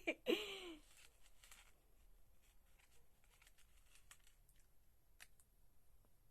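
Faint, scattered small clicks and scrapes of a spoon digging a bite of fudge out of its container, after a brief vocal sound right at the start.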